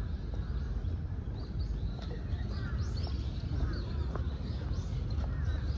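Small birds chirping in short, repeated calls from the park trees, over a steady low background rumble.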